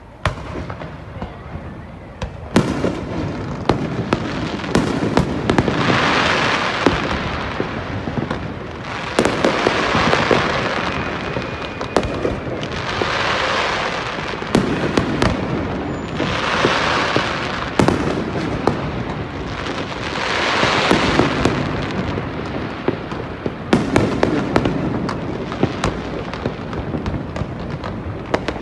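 Fireworks display going off: a dense, continuous run of sharp cracks and bangs, with swells of rushing noise every few seconds.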